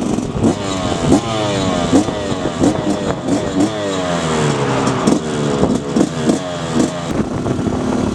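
A motor vehicle's engine, its pitch dropping again and again, with short knocks between the drops.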